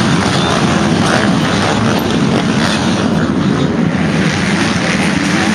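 Several MX2 motocross bikes racing, their engines running hard in a loud, steady, dense blur of exhaust noise.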